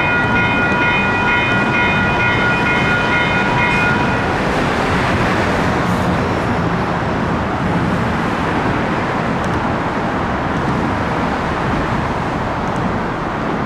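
WCH Type 4 electronic crossing bells ringing in rapid strikes, cutting off about four seconds in as the crossing activation ends. Under them is a steady rolling rumble from the freight train passing over the crossing.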